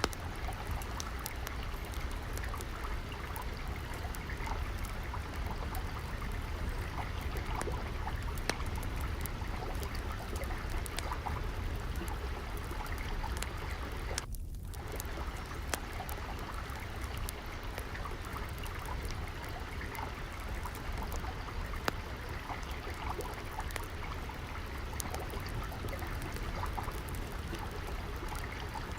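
Steadily flowing, trickling water mixed with the scattered small pops and crackles of a wood fire in a fireplace. The water sound briefly dips about halfway through.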